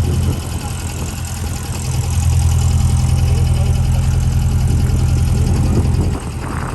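Engine running at idle, a steady low hum that grows louder about two seconds in and drops back suddenly about six seconds in.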